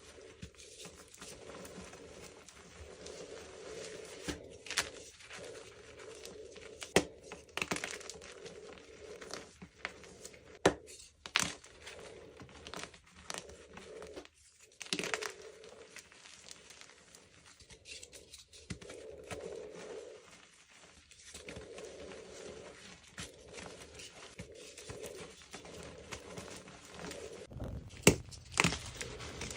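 Block gym chalk being crushed and crumbled close up: a soft, powdery crumbling broken by scattered sharp snaps and crunches, several louder ones near the end.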